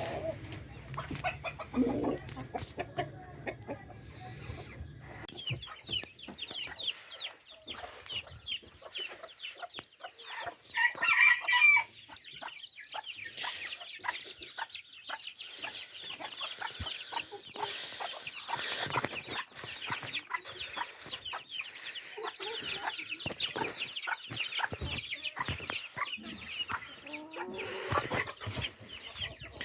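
A flock of caged chickens clucking and calling, with many short, high calls overlapping, and one loud crow from a rooster about eleven seconds in.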